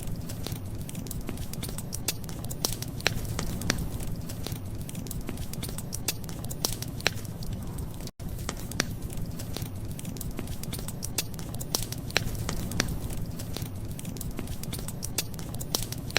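Wood fire crackling: irregular sharp pops and snaps over a steady low rumble, with a brief gap in the sound about halfway through.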